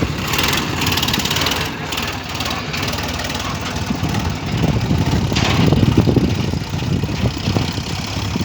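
Tractor engines running with a steady low rumble. The sound grows louder about five to six seconds in.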